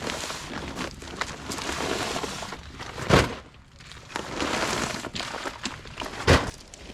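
Footsteps with scuffing noise, and two loud thumps, one about three seconds in and one near the end.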